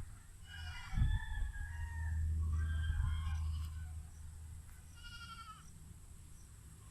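Farm animals calling: three pitched calls about two seconds apart, the last one quavering. A low rumble swells through the middle.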